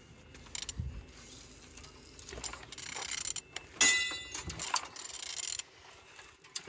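Vauxhall/Opel A13DTE 1.3 CDTi diesel engine being turned over by hand on the bench: irregular ratchet clicks and metal knocks as the crankshaft rotates, with a short ringing metallic clang about four seconds in. The engine turns freely, a sign it is not seized.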